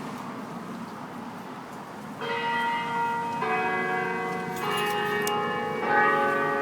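Courthouse clock-tower chime bells ringing, starting about two seconds in, with a new bell note struck roughly every second and a bit, each ringing on under the next.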